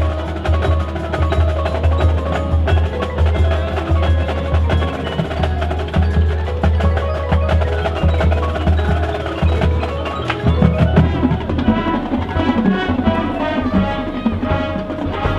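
Marching band percussion playing a loud passage: mallet percussion rings out in quick short notes over a deep, sustained low pulse, with sharp knocks on top. It comes in suddenly, and the mallet notes grow denser about ten seconds in.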